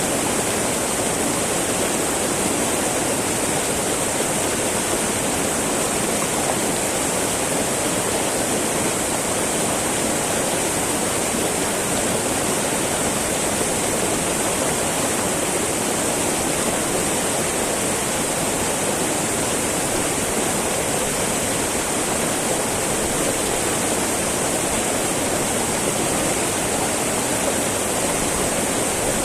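Small mountain river babbling steadily over its bed: a constant, unbroken rush of flowing water.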